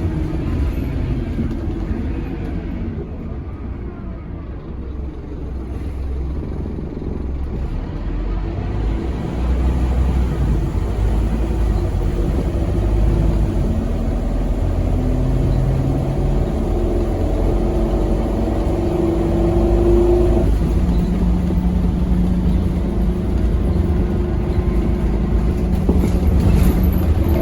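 Engine of a Scania K270UB6 tri-axle single-deck bus, heard on board while the bus drives. It eases off about three to six seconds in, then pulls harder again, and the engine note changes pitch about twenty seconds in.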